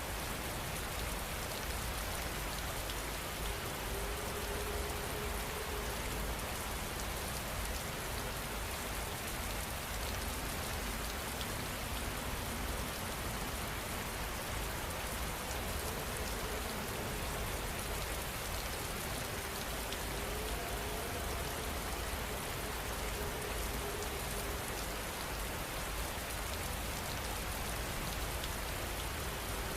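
Steady rain falling, an even hiss of drops with no breaks or thunder.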